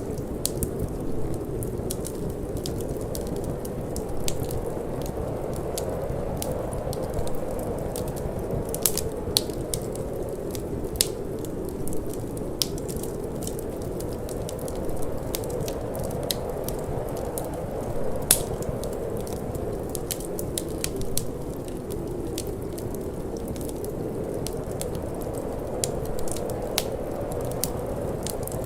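Wood fire crackling in a fireplace, with irregular sharp pops and snaps, a few louder ones, over a steady low rush of wind.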